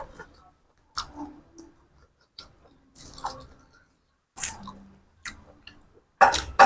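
A person chewing and crunching food close to the microphone, with separate crisp crunches about every second and the loudest bite near the end.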